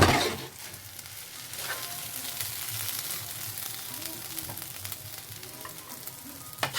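Food sizzling in a hot pan, a steady crackling hiss, after a loud knock right at the start.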